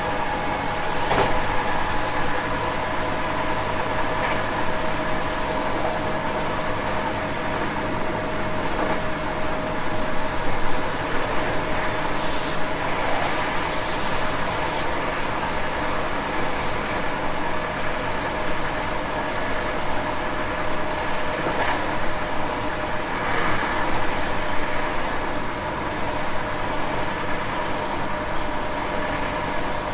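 JR West 221 series electric train running at steady speed: wheels rumbling on the rail under a steady motor whine, with a few sharp clacks.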